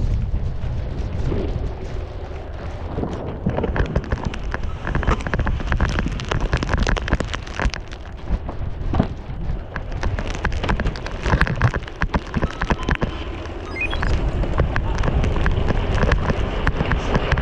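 Wind rushing over the action camera's microphones at riding speed, with a dense crackle and scrape of the board or skis cutting through powder snow. The rumble eases briefly a couple of times and builds again.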